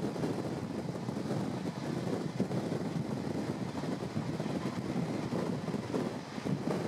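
Passenger train running on the track: a steady rumble of wheels and running gear, with no distinct clatter or horn.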